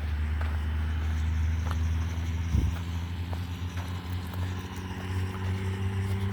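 Motor vehicle engine running with a steady low hum, its pitch shifting about two and a half seconds in, with a brief knock at the same moment.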